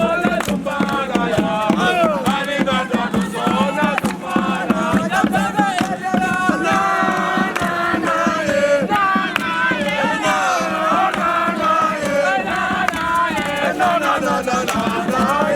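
A crowd of young voices chanting and singing a camp song together, many voices at once without pause.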